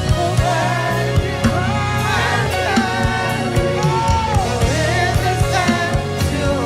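Live gospel worship music: sung melody over a band with keyboard, bass and a steady drum beat.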